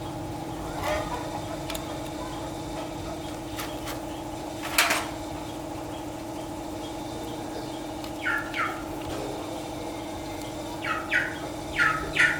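Short falling chirps in pairs, bird-like, in the last few seconds, over a steady hum, with one sharp click about five seconds in.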